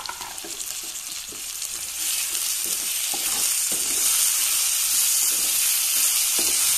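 Chopped tomatoes sizzling in hot oil among browned onions, stirred with a slotted wooden spatula that scrapes and knocks against the pan. The tomatoes' juice is hitting a pan bottom where the onions had begun to catch, and the sizzle grows louder about two seconds in.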